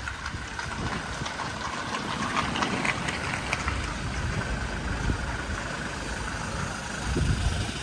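Steady street noise with a vehicle engine idling nearby and a low rumble that swells slightly near the end.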